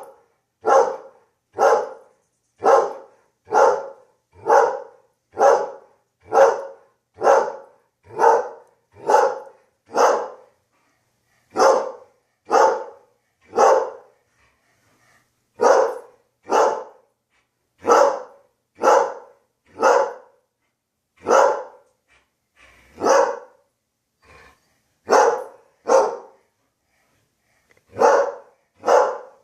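Greyhound barking over and over at a spinning ceiling fan, about one bark a second, with a few short pauses.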